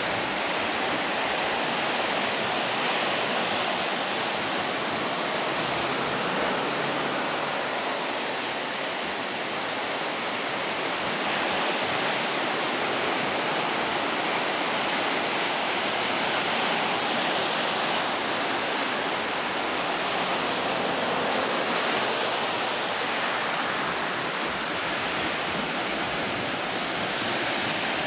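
Steady rush of surf from typhoon swell breaking along the beach, a continuous hiss of white water that swells and eases slightly over several seconds.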